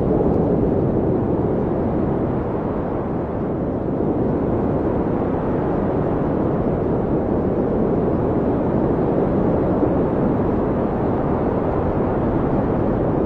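Blizzard wind blowing in a heavy snowstorm: a low, steady rush.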